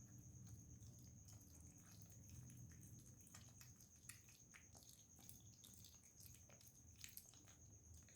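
Faint, irregular wet clicks of a cat chewing and eating food, over a faint steady high whine.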